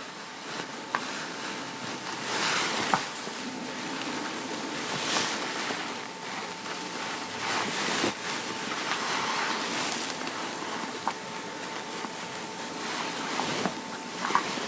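Fabric rustling and rubbing as the ribbons on the back of a cotton blouse are pulled and tightened, in uneven swells with a few small clicks.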